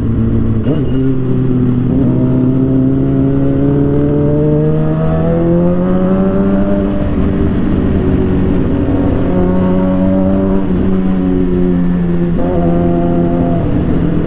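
Suzuki GSX-R 750's inline-four engine pulling under throttle, its pitch climbing steadily for several seconds, then easing off and holding steady before stepping up again near the end.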